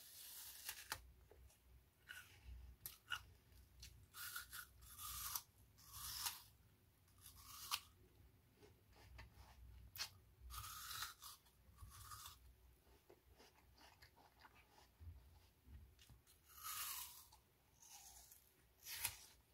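A person chewing crisp apple close to the microphone: short crunches come roughly once a second, with a quieter pause past the middle.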